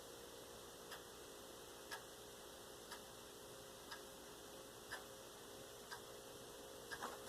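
A clock ticking faintly, about once a second, over a low steady hum, with a couple of quicker small clicks just before the end.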